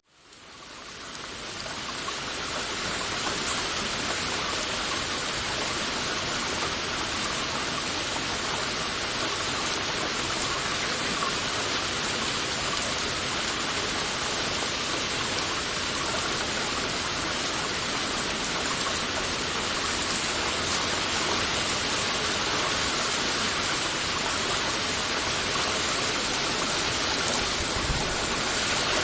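Heavy rain falling in a steady, dense hiss, fading in over the first couple of seconds.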